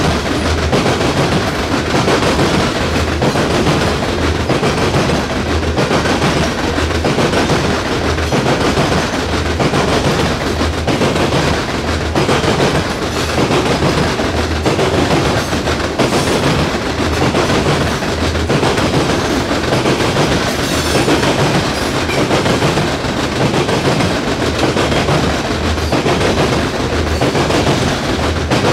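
CSX coal train's open-top hopper cars rolling past, loud and steady, their steel wheels clicking over the rail joints in a repeating clickety-clack over a continuous rumble.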